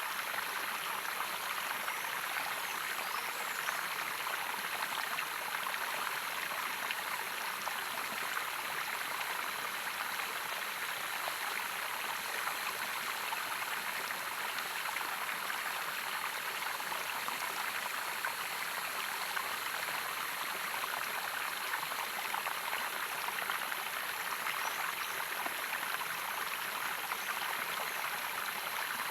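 Natural running water of a stream, flowing with a steady, even rush.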